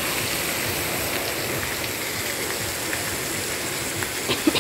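Wahoo medallions and onions sizzling steadily in butter and olive oil on a wide steel pan, with a sharp click or two near the end.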